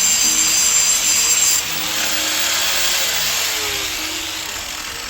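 Power grinder grinding down metal, a loud harsh rasp with a high whine. About one and a half seconds in the whine drops away and the grinding eases, then fades off gradually.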